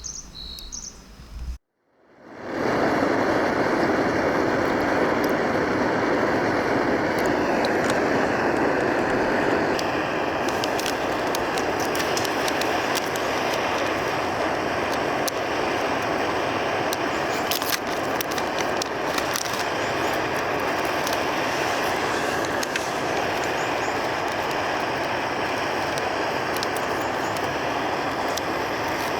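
Firewood burning in a campfire: a steady rush of flame with scattered sharp pops and crackles.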